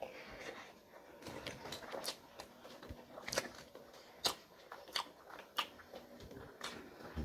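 Close-miked chewing and biting of crunchy food, a string of sharp, irregular crunches with softer chewing between them.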